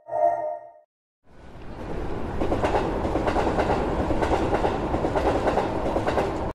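A Japanese level-crossing alarm gives one last ring, then stops. About a second in, a passing train fades in and holds as a steady rumble with clatter from the wheels on the rails.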